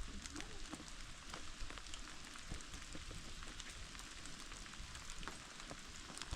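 Steady rain falling, an even hiss with many scattered drops ticking on surfaces.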